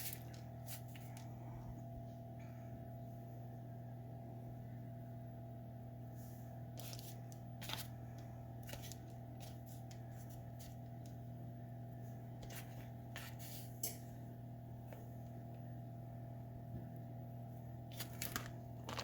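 Steady low hum of room tone with a few faint clicks and light knocks from things being handled.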